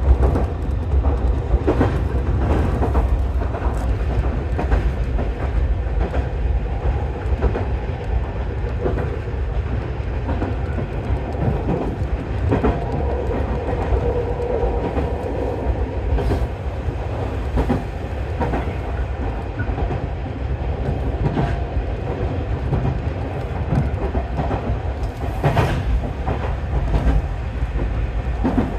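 Nankai 'Medetai Densha' electric train running along the track, heard from inside the front car: a steady low rumble with short clacks from the wheels now and then.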